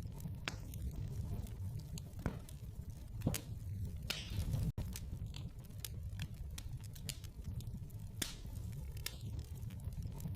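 Wood fire in a fireplace crackling: irregular sharp pops and snaps over a steady low rumble of the flames, with a momentary gap a little under halfway through.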